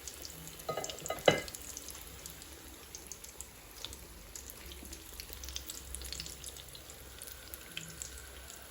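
Batter-coated potato chops deep-frying in hot oil on a low flame, sizzling with a steady fine crackle. About a second in there is a sharp knock.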